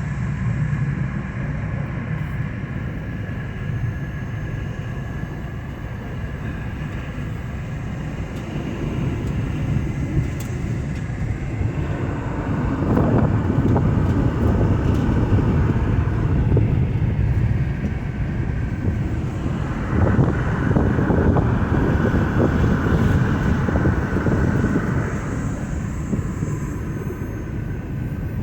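A car driving along a road: a steady engine and road rumble that swells louder twice, from about halfway through and again near the end.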